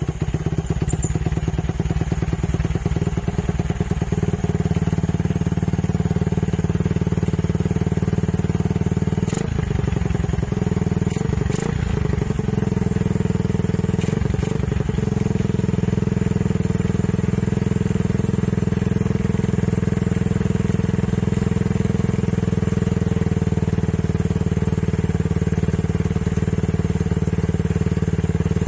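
Yamaha Vixion's 150 cc single-cylinder four-stroke engine idling through an aftermarket Suzuki Satria F exhaust. The note is steady and turns briefly unsettled a few times near the middle.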